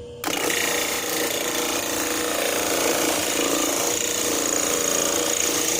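A small piece of wood sanding against the sandpaper disc of a homemade slow-running sander driven by a washing-machine motor: a steady, coarse sanding noise with a faint high whine. It starts just after the beginning and stops abruptly at the end.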